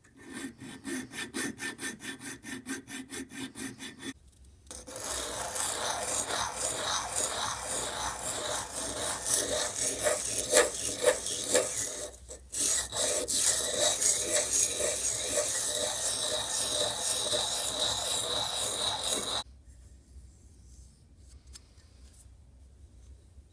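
Metal of an antique grass trimmer being worked with an abrasive tool. First come about four seconds of quick, even back-and-forth filing strokes. Then a longer stretch of continuous rasping with a steady high whine runs through it and cuts off sharply near the end, as the casting marks and rust pitting are smoothed down.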